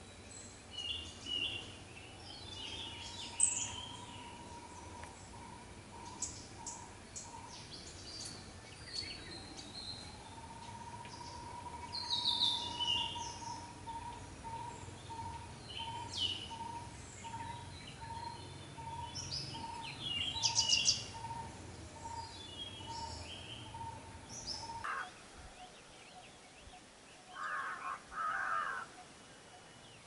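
Birds calling: short bursts of harsh, high chattering, plausibly from yellow-billed babblers, over a clear whistled note at one steady pitch, held at first and then repeated about one and a half times a second. A low background rumble stops about 25 seconds in, and rougher, lower calls follow near the end.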